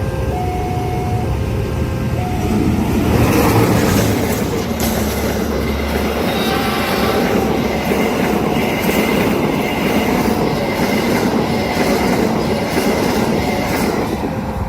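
A long train passing close by at speed over a level crossing, its wheels clattering on the rails, and a faint steady squeal from the wheels on the curve. The crossing's alternating two-tone warning signal sounds over it, clearest in the first couple of seconds and again near the end; the train's rush builds about three seconds in and is loudest around four seconds.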